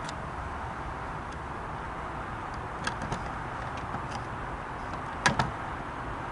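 Steady background noise with no distinct engine tone, broken by a few sharp clicks about three seconds in and a close pair of louder clicks near the end.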